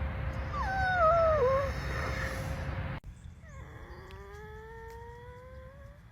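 Two drawn-out animal cries. The first wavers and falls in pitch for about a second. After an abrupt cut comes a longer cry that rises steadily in pitch.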